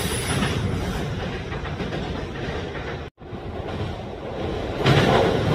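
Train running on rails: a steady rumble that eases over the first few seconds, breaks off to silence for a moment about three seconds in, then grows louder near the end.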